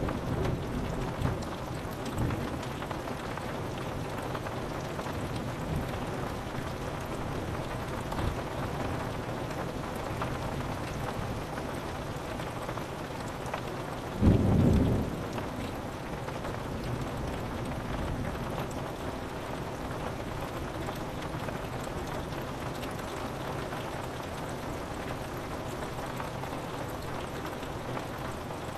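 Steady rain pattering on a window, with a single loud, low clap of thunder about halfway through that dies away within a second or so.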